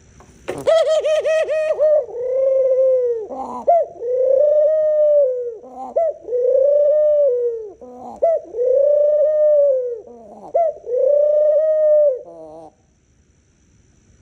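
Pet dove cooing close by. It gives a quick run of short pulsed coos, then five long drawn-out coos of about a second each with short notes between them, and falls quiet about two seconds before the end.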